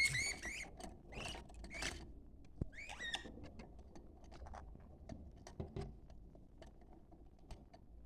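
Budgerigars chirping and chattering in short, quick calls. A few clearer warbled chirps come in the first three seconds, then softer scattered chirps and ticks.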